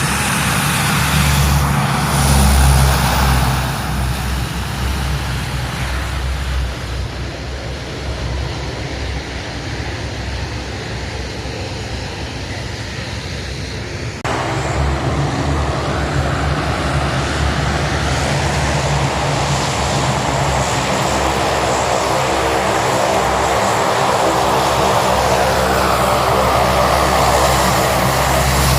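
Aircraft engines: an aircraft passing, loudest about two to three seconds in and then fading. The sound changes abruptly about halfway through, and from then on a steady engine drone with a rising and falling whine is heard.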